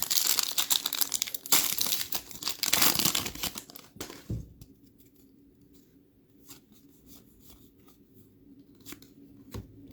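An NBA Hoops retail card pack wrapper is torn open and crinkled for about four seconds. It is followed by soft scattered clicks of the cards being handled.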